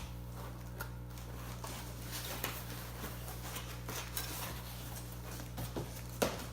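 Steady low hum with a few faint, scattered taps and handling noises, a little louder near the end.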